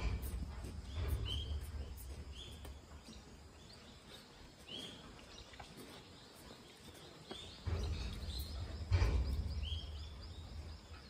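Short bird chirps repeating about once a second or so, over bursts of low rumble near the start and again from about eight seconds in.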